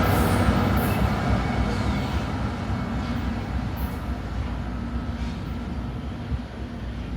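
Mixed freight train rolling past on the rails, a steady rumble of wagons and wheels with a few sharp clicks, fading gradually as the train moves away.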